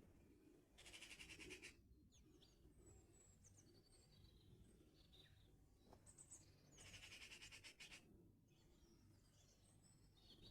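Small songbirds singing: two loud, rapid, buzzy trills of about a second each, one near the start and one about six seconds later, with thin, high chirps and twitters between them.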